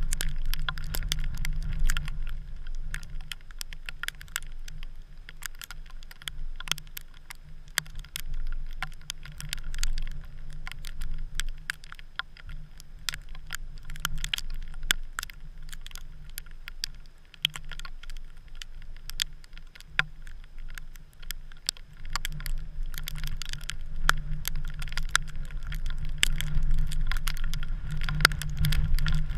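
Wind-driven snow pattering in rapid, irregular ticks over a low wind rumble, which eases in the middle and builds again near the end.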